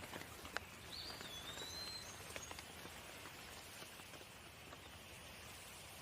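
Steady rain falling, with individual drops ticking through it. A single whistled bird call glides up and then down about a second in.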